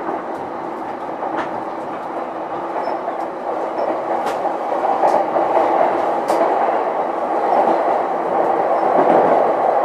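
Running noise heard inside a JR East E233-1000 series electric train's motor car: the steady rumble of wheels on rail, with a few sharp clicks, growing a little louder in the second half.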